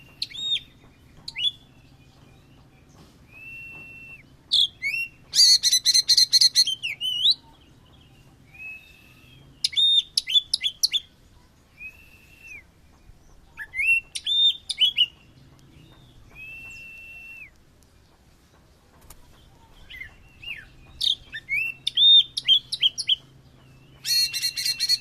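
A songbird singing loudly in phrases: clear level whistles about a second long alternate with dense, rapid trilled bursts, the loudest bursts coming about five seconds in and near the end.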